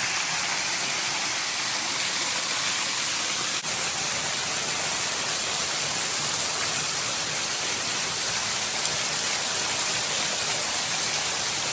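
Small waterfall rushing steadily, an even hiss of falling water that dips for a moment about three and a half seconds in.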